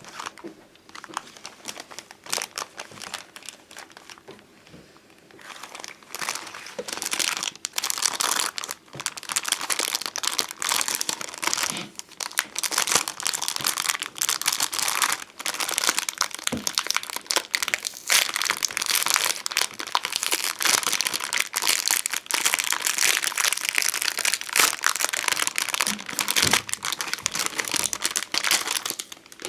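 Sheets of glossy puffy stickers (bonbon drop and ohajiki stickers) handled close up: crinkling and crackling, scattered at first, then dense and continuous after about five or six seconds.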